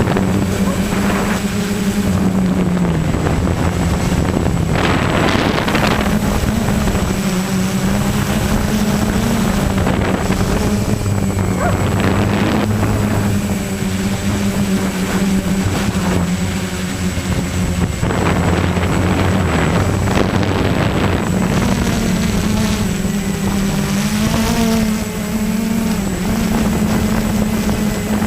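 A motor's steady drone, its pitch stepping up and down a little, with short rushes of noise at times.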